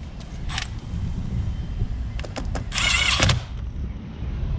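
A screw gun whirring for about half a second as it drives a sheet-metal screw into the access door of a heat pump unit, after a few light clicks of handling, over a low rumble.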